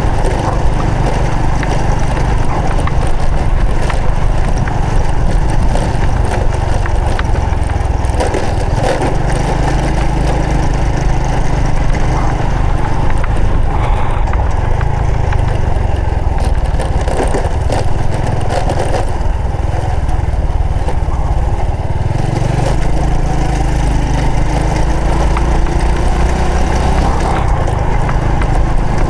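Honda Supra X 125 FI's single-cylinder four-stroke engine running under way, its note shifting up and down several times as the rider changes throttle and gears, with wind and road rush.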